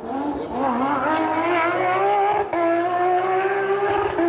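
Porsche competition car's engine accelerating hard, its note climbing, with a gear change about two and a half seconds in, then pulling steadily higher.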